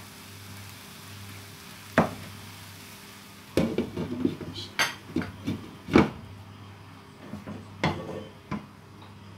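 Cooking utensil knocking and scraping against a pan: one sharp clack about two seconds in, then a run of irregular clatters through the middle, over a steady low hum.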